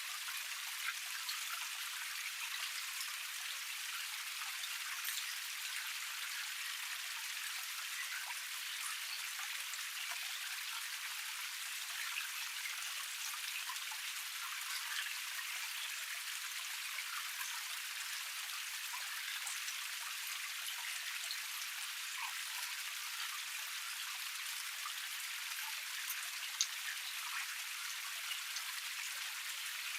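Small woodland waterfall cascade splashing steadily over rock: an even rush of fine splashes and drips with no bass, sprinkled with tiny ticks and one sharper tick near the end.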